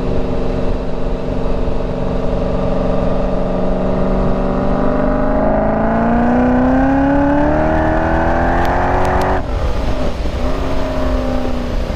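Supercharged 408 cubic-inch LS V8 with a Summit Racing Pro LS 8722R1 cam, breathing through long-tube headers, an X-pipe and a Corsa exhaust. It runs steadily, then is pushed hard, its pitch rising smoothly for about four seconds before the throttle snaps shut and it drops back sharply to a lower, settling run.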